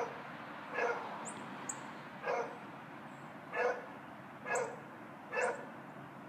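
A dog barking repeatedly, about one bark a second, six barks in all. The neighbor recording it takes the barking for a sign of stress from the dog being kept confined around the clock.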